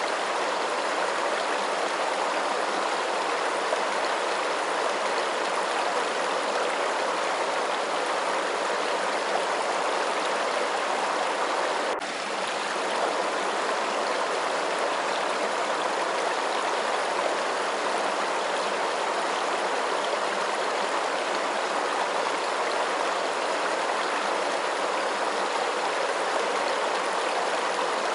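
Steady, even rush of flowing water, like a stream. Near the middle there is a single faint click with a brief dip in level.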